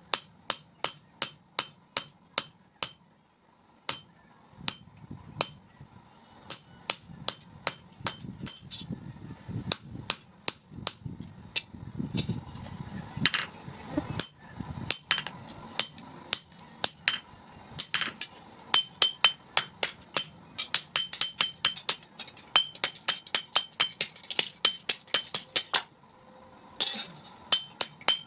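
Blacksmith's hammer striking steel on an anvil in runs of about three blows a second, each blow ringing, with short pauses between the runs.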